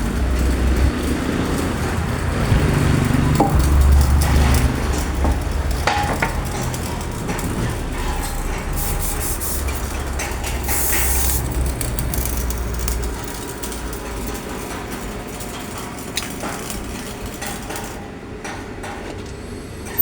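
Metalworking site noise: a steady low machinery hum that fades about thirteen seconds in, with scattered metal clinks and knocks and a short burst of hiss about ten seconds in.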